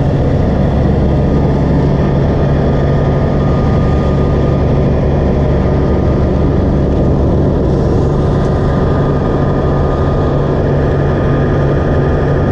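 Wood chipper's engine running steadily at a constant speed, a low, even drone with no changes.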